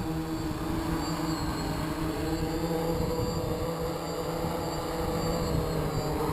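DJI F550 hexacopter's six brushless motors and propellers humming steadily as it flies low, the pitch shifting slightly with throttle, with wind rumbling on the microphone.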